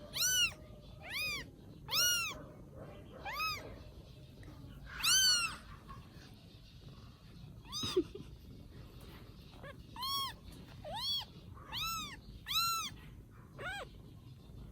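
High-pitched mewing of very young kittens: about a dozen short mews, each rising then falling in pitch, coming every second or so with a pause of a couple of seconds near the middle.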